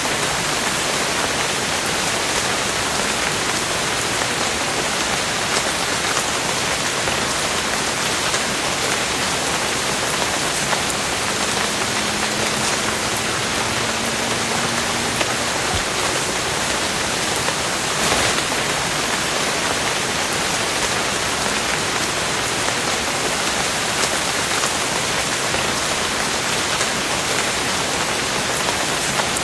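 Steady rain falling, an even dense hiss with now and then a sharper tick of a drop.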